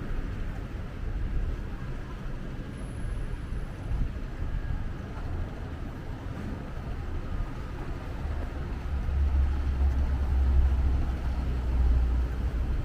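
City street traffic: a steady rumble of passing road vehicles, with a deeper rumble building and swelling in the second half as a heavier vehicle goes by.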